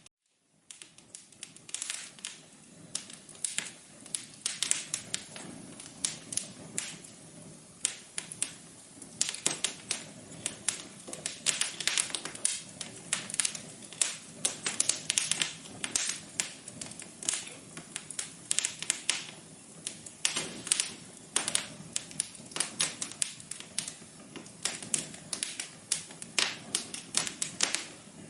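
Wood fire crackling in a fireplace: a dense, irregular run of quick pops and snaps over a faint steady hiss.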